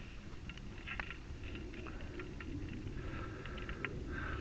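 Scattered small crackles and pops over a low rumble from a wood fire heating a pot of hydraulic fluid, which is being brought up toward 212°F to boil off any water in it.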